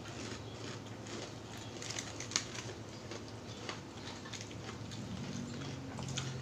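Close-miked eating sounds: chewing and crunching of crispy fried chicken skin, with many scattered small mouth clicks.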